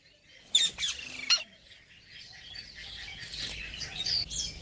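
Pet parrot calling: two short, loud, sharp squawks about half a second and just over a second in, then quieter rapid chattering and chirps.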